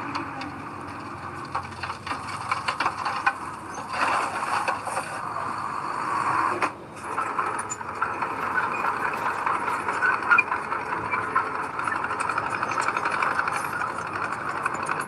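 Heavy diesel earthmoving machinery running steadily, with a constant rattle of fine clicks over the engine noise. The sound drops away briefly about seven seconds in, then carries on.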